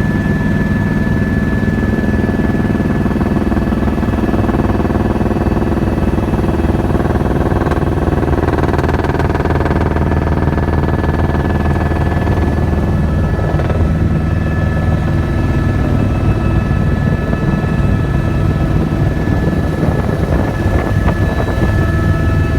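Helicopter in flight, heard from inside the cabin: a steady engine and rotor drone with a constant high whine over it.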